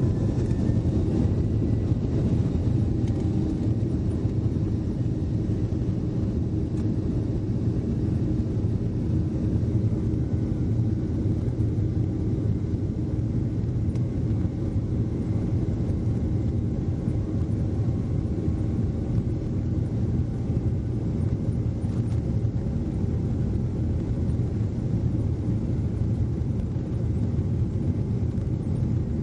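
Steady low rumble of a jet airliner's engines and airflow, holding an even level throughout.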